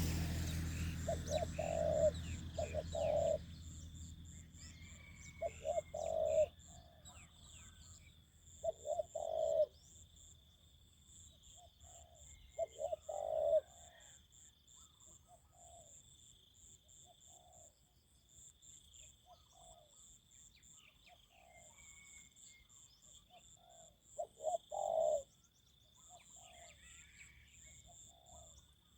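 Spotted doves cooing: one near bird gives short phrases of two or three low coos every few seconds, loudest about 24 seconds in, and fainter doves answer between the phrases. A steady high insect buzz goes on underneath.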